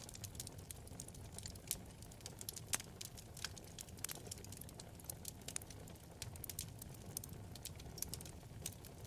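Wood fire burning in a fireplace: a steady low rumble of flames with frequent irregular sharp crackles and pops from the burning wood, a couple of them louder, about two and three seconds in.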